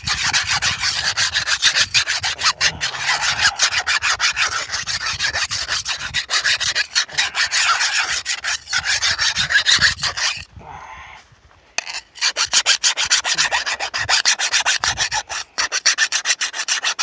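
Flat file rasping back and forth in rapid strokes along the steel rails of a Stihl MS 290 chainsaw guide bar, dressing down the burred edges so they are even. The filing stops briefly about ten seconds in, then resumes.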